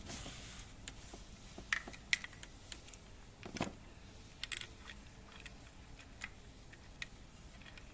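Scattered light metallic clicks and clinks of hand tools and engine parts being handled during timing-chain work, a few knocks a second apart with the most distinct ones in the middle.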